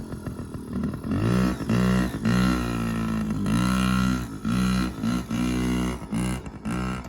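Yamaha PW50's small single-cylinder two-stroke engine revving as the mini dirt bike is ridden, its pitch climbing and dropping back again and again with the throttle.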